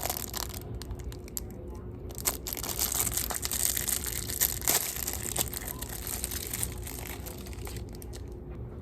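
Crinkling and crackling of packaging being handled close to the microphone, with many sharp crackles that thin out near the end.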